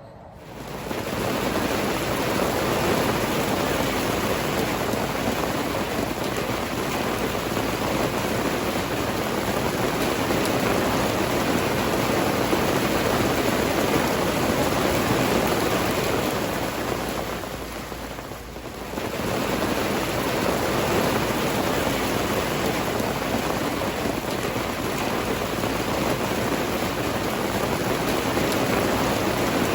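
A steady, even hiss-like rushing noise, dipping briefly about eighteen seconds in before returning.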